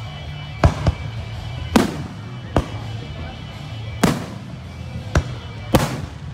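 Aerial fireworks going off in an irregular volley of about seven sharp bangs, some of them ringing out briefly.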